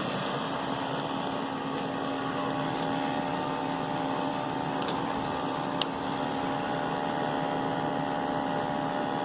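Gas furnace running: a steady mechanical hum of motor and moving air with a few constant tones, and a single small click about six seconds in.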